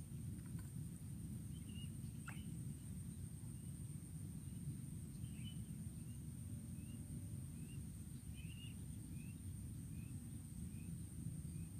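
A small bird chirping: short single chirps, coming about every half second to second in the second half, over a steady low rumble and a faint steady high tone.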